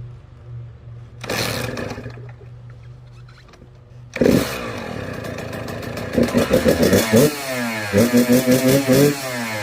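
Kawasaki KX100 two-stroke engine started cold: a short burst about a second in, then it catches about four seconds in and is revved hard twice, each time held against the rev limiter so the sound stutters several times a second.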